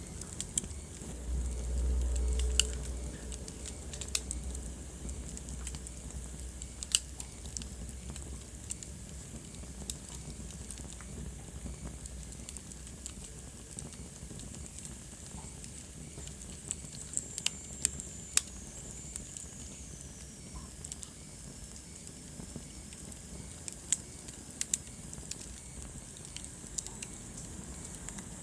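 Wood fire crackling in a fireplace, with sharp pops at irregular intervals over a steady low hiss. A low rumble swells about a second in and fades after a couple of seconds, and a faint high whistle slowly falls in pitch around the middle.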